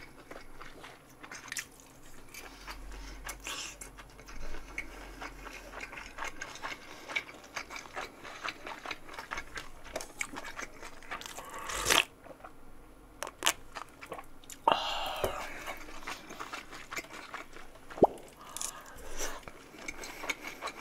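Close-miked chewing and crunching as mouthfuls of dumplings are eaten, with many small wet clicks and crackles and a few sharper clicks, the loudest burst about twelve seconds in.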